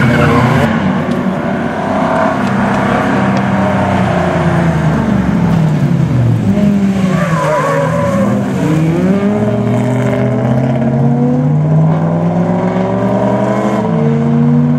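Rally car's engine revving up and down through a corner, the revs dipping midway and then climbing steadily as it pulls away, with a gear change near the end.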